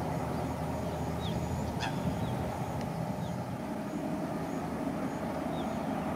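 Steady rumble of a double-decker express train running, hauled by a WAP7 electric locomotive, with a faint click about two seconds in.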